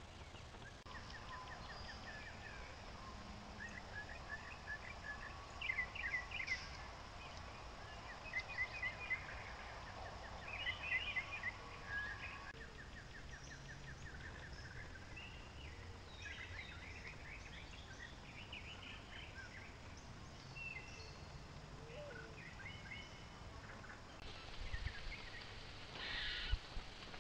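Wild songbirds singing outdoors: several short, repeated trilled phrases, some overlapping, over a low steady background rumble. A brief burst of noise comes near the end.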